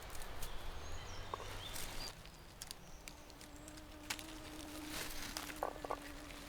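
Wind rustling through the forest for about two seconds, then a quieter stretch with scattered small clicks and a faint steady hum in the second half.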